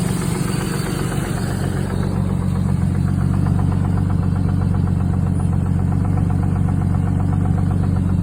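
1989 Jeep Cherokee 4.0-litre inline-six running warm with a fast, steady knock over the engine hum. The owner can't tell whether it is rod knock, piston slap or lifters; it comes on once the engine is warm, when oil pressure drops.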